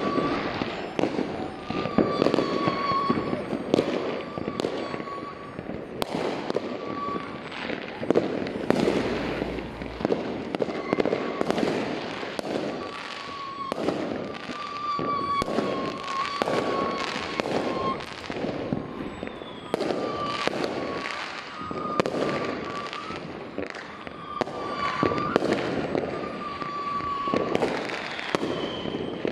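Many aerial fireworks and firecrackers going off in quick succession, bangs and crackles overlapping without a pause.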